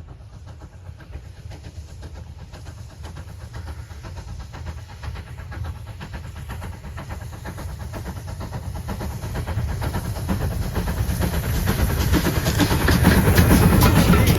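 A heritage train running on the track: a low rumble and a dense rattle of wheels over the rails, growing steadily louder.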